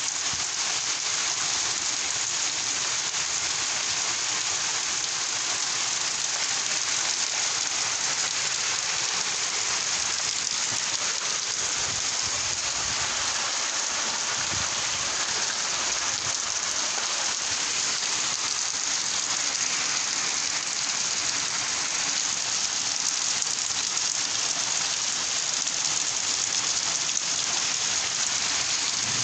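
Steady heavy rain, a dense even hiss of drops falling on surfaces.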